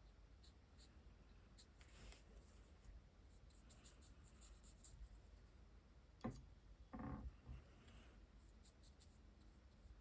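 Faint scratching of a water-based marker's brush tip on hot-press watercolour paper, with a sharp click a little after six seconds in and a short rustle just after it.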